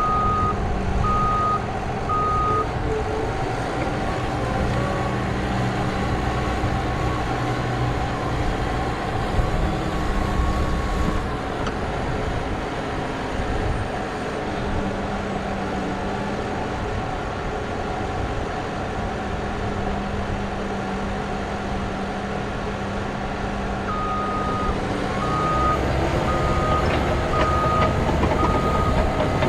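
Cat D6K2 bulldozer's diesel engine running under load, its pitch shifting as it pushes. A reversing alarm beeps steadily near the start and again over the last five seconds or so as the dozer backs up.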